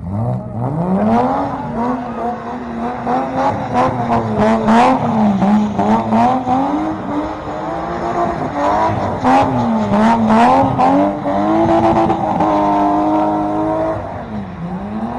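Car engine running at high revs, its pitch swinging up and down again and again as the throttle is worked, with sharp cracks now and then. It holds nearly steady for a couple of seconds near the end.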